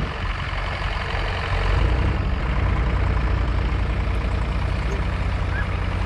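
Tractor engine running steadily, a deep, even hum.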